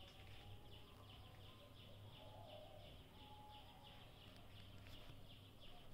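Faint bird chirping: many short, falling chirps in quick succession, over a low steady hum.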